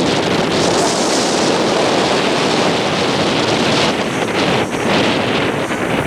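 Strong wind buffeting the camera's built-in microphone: a loud, continuous rushing rumble.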